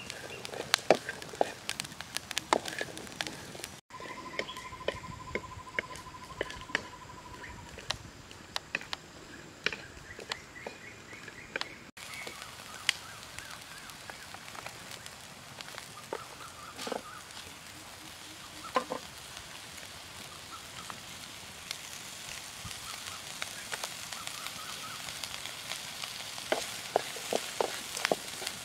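Stir-fry sizzling in a wok over a wood fire, with the fire crackling in sharp clicks and a wooden spatula scraping and knocking against the pan, most busily near the end.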